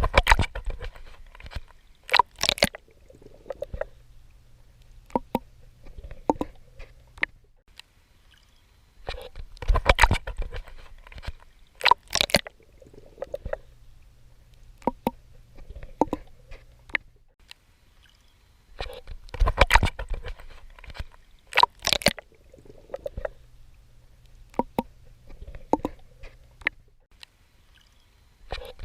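Water splashing and sloshing from swimming strokes: clusters of sharp splashes followed by quieter sloshing and gurgling, the same pattern repeating three times, about every ten seconds.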